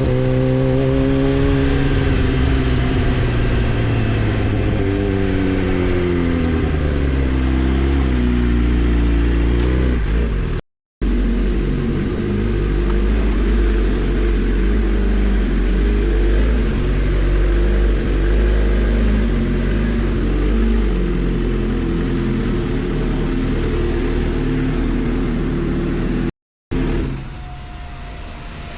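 Kawasaki ZX-10R sport bike's inline-four engine on the move, its pitch falling and rising as the rider rolls off and on the throttle through the gears. The sound cuts out completely twice, and near the end it settles to a quieter, steadier running.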